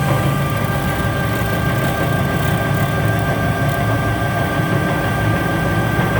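Doall horizontal metal-cutting bandsaw running: a loud, steady machine hum with a steady whine on top.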